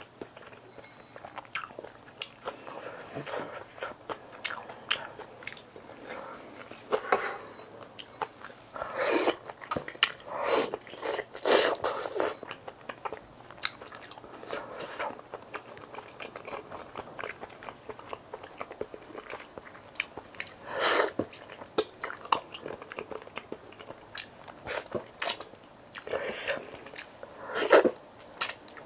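Close-miked eating sounds of a person chewing and biting a Korean home meal, with small mouth clicks throughout and several louder crunchy bursts near the middle and end.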